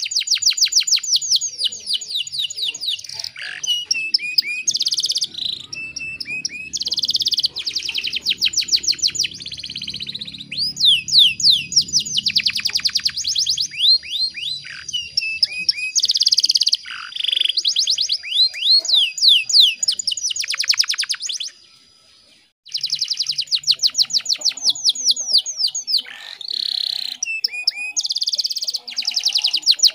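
Domestic canary singing in long, fast trills of rapidly repeated high sweeping notes, phrase after phrase, with a brief break a little over two-thirds of the way through.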